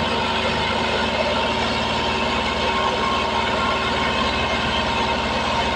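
Tractor diesel engine running steadily at a constant speed, with an even, rapid firing beat.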